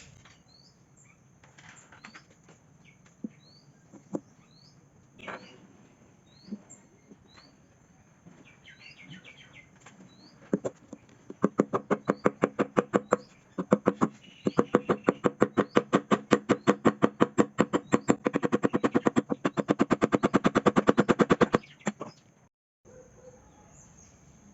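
A small bird chirps over and over, about once a second. From about ten seconds in come three bursts of rapid, even knocks, about ten a second, which are the loudest sound. They stop suddenly a couple of seconds before the end.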